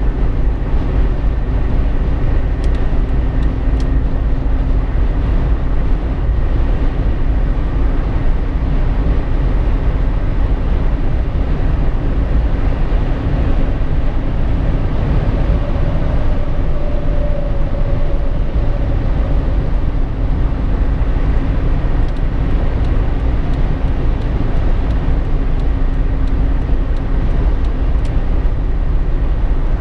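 Road noise inside a Jeep Wrangler JK's cabin at highway speed: a steady rumble of tyres and engine, with a low drone running under it.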